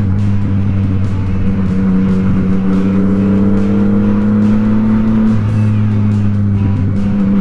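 Yamaha MT-09's three-cylinder engine running at steady cruising revs, heard over wind rush; the pitch dips slightly about five seconds in.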